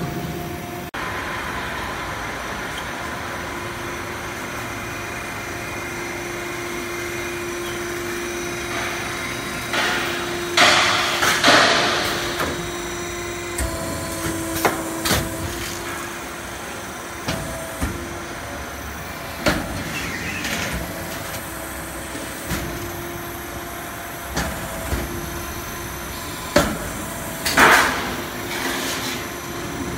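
HVAC duct manufacturing auto line running: a steady machine hum with a held tone, broken by irregular loud metallic clanks and bangs from the sheet-metal line, clustered about a third of the way in and again near the end.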